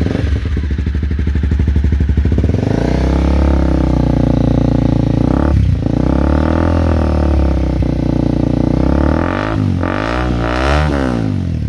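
Honda CBR250R single-cylinder engine through a Delkevic stainless steel exhaust, idling, then revved up and held at raised revs with a brief drop about six seconds in. Near the end it is blipped several times in quick succession and settles back to idle.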